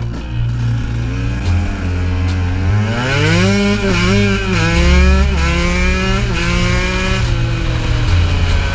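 KTM 125 two-stroke enduro engine revving. Its pitch climbs steeply about two seconds in, then rises and falls with the throttle.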